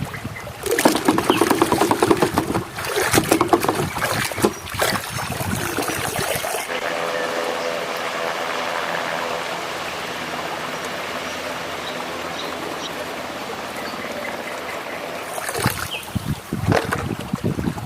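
Water splashing and plastic toys knocking about as muddy toy airplanes are washed, then a steady stream of running water for about nine seconds, with splashing and knocking again near the end.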